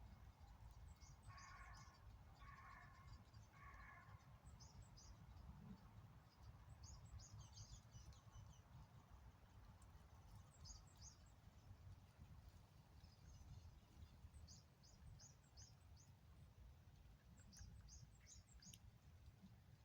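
Faint birdsong: small birds chirping in quick, high clusters every few seconds, with three lower calls about a second apart near the start, over a steady low background rumble.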